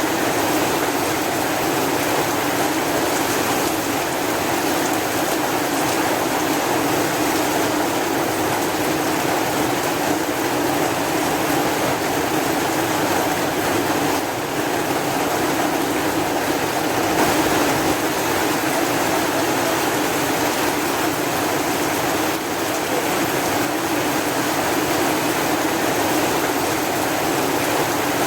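Steady heavy rain, an even hiss of water without breaks.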